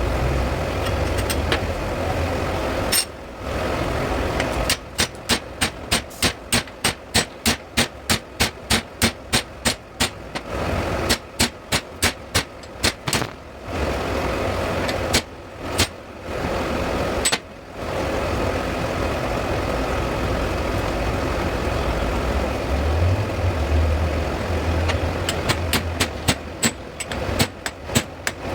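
Sharp metal-on-metal strikes in runs of about two a second, with a few single blows between, over a steady low machine drone.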